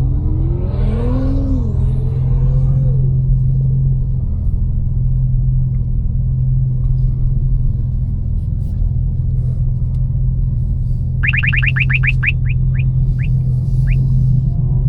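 Tuned, catless BMW M4 Competition's twin-turbo straight-six running with a steady low drone at low speed, heard from inside the cabin. From about eleven seconds in, a quick run of short rising chirps sounds over it, slowing and thinning out over about three seconds.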